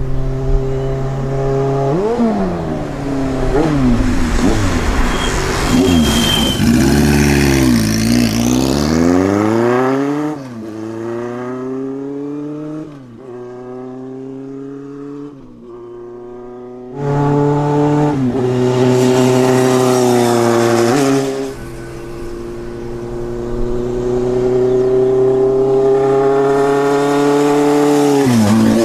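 Vintage motorcycle engines running and revving, their pitch rising and falling again and again, with several sweeping drops in pitch as machines go past; quieter for a few seconds around the middle.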